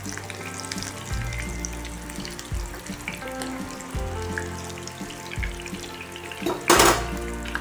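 Egg cutlets sizzling as they shallow-fry in hot oil in a nonstick pan while a perforated steel skimmer turns and lifts them, with a brief loud clatter near the end. Background music with a low bass line plays along.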